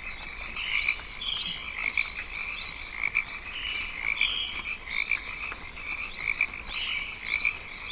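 Rainforest frog chorus: many frogs calling together in a dense, pulsing band, with short, high, rising chirps repeating above it.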